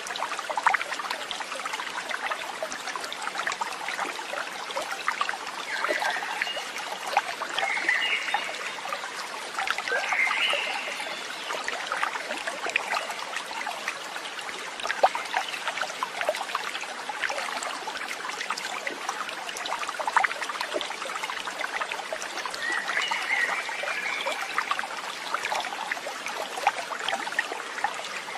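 Steady trickling, running water like a small stream, with a few short animal calls a handful of times over it.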